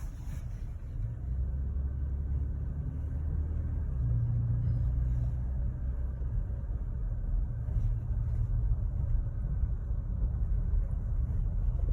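Pickup truck driving: a steady low engine drone with road rumble, heard from inside the cab.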